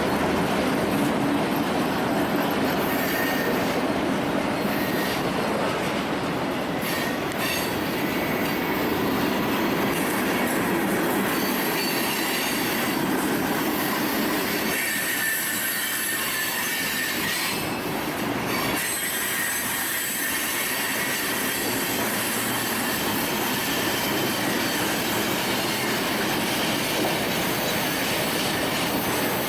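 Union Pacific freight train's cars rolling past in a steady rumble, with thin high wheel squeal coming and going.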